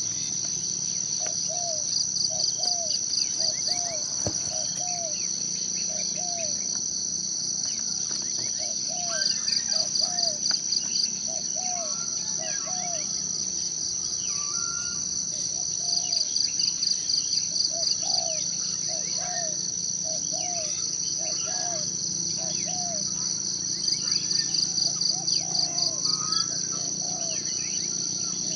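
Forest ambience: a steady high-pitched insect drone, broken by four bouts of fast pulsing trills each lasting about two seconds. Under it a bird repeats a short low upslurred note, roughly two a second, with scattered higher bird chirps.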